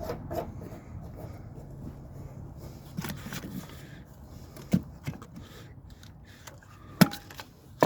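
A few sharp knocks and light scraping over a low steady hum, with the loudest knocks about three seconds in, near five seconds, and again near seven seconds.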